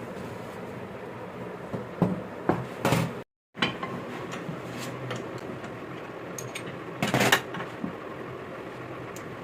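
Metal hand tools clanking and knocking on turbocharger parts, with a handful of sharp knocks about two to three seconds in and a louder, half-second scraping rush near the seven-second mark, over a steady workshop background noise.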